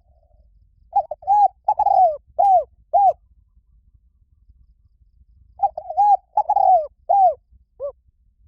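Spotted dove cooing: two phrases of five or six coos each, a few seconds apart, most notes sliding down in pitch at the end.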